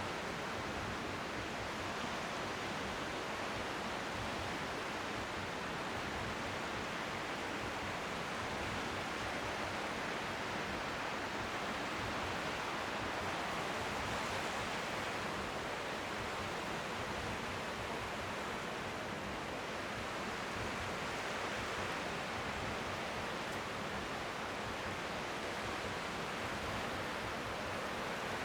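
Steady rushing noise of strong wind by the sea, with gentle waves lapping faintly on the shore underneath.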